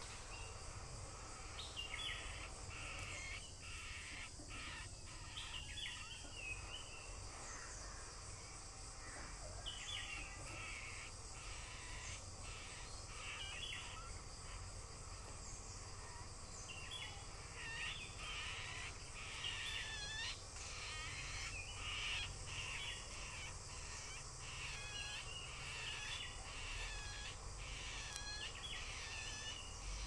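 Birds calling in runs of short, harsh, repeated notes, thickest in the second half, over a steady low rumble.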